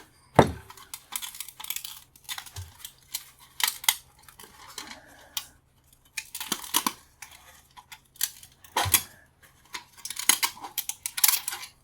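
Irregular metallic clicks, taps and scrapes as the brass tabs of a light fixture are bent back to free a pane of glass, with a few dull knocks.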